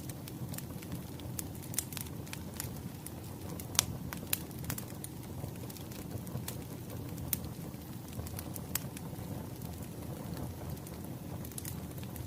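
Wood fire crackling: irregular sharp pops and snaps over a steady low rumble of flames, the sharpest pop about four seconds in.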